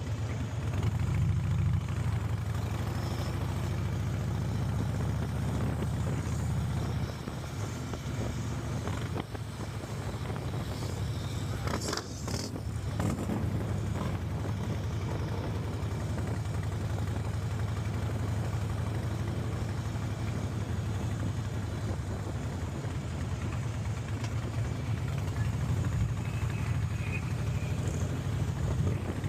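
Motorcycle engine running steadily at a constant low rumble, without big revs, with a couple of brief sharp clicks about twelve seconds in.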